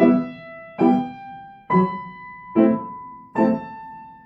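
Piano chords played at a slow, even pace, five struck in about four seconds, each left to ring and fade before the next.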